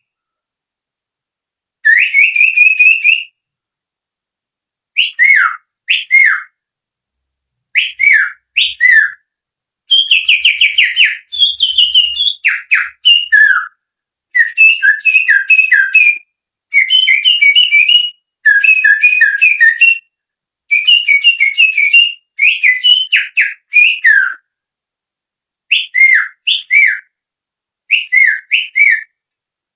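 Finger whistling through the little fingers, imitating a sirtu songbird's song: short phrases of quick whistled notes sliding up and down, repeated again and again with brief pauses between them.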